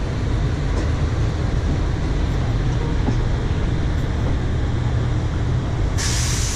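Steady low rumble of a passenger train running along the track, heard from a coach window. A sudden loud hiss comes in near the end.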